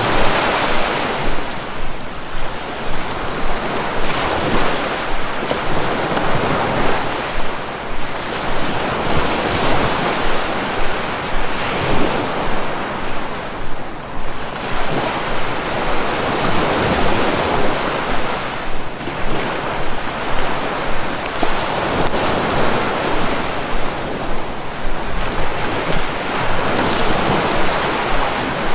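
Sea waves washing in and breaking, a continuous rushing surf that swells and eases every few seconds, with some wind noise on the microphone.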